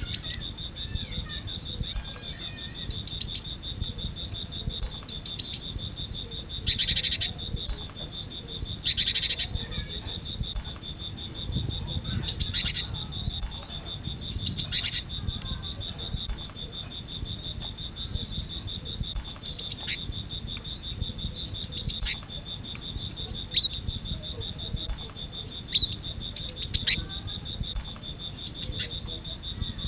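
Cinereous tit (gelatik batu) calling and singing: quick bursts of four or five high, sharp notes, repeated every couple of seconds. Two harsh, rasping calls come about a quarter of the way through. A steady high tone runs underneath.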